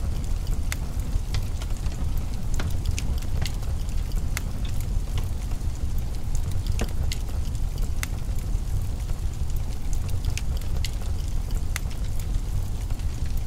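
Wood fire crackling in a fireplace: irregular sharp snaps and pops, a few every second, over a steady low rumble.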